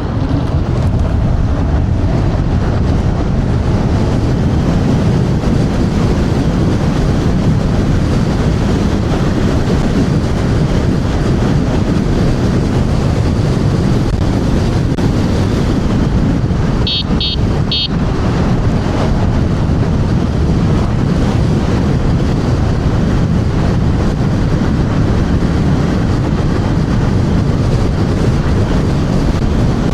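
Strong wind buffeting the microphone of a rider on an electric scooter at speed: a loud, steady low rush. Three short high beeps sound about seventeen seconds in.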